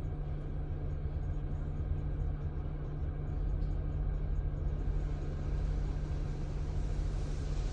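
Steady low rumble of a car idling, heard from inside the cabin during an automatic car wash. About three seconds in, a hiss of rinse water spraying on the car grows louder.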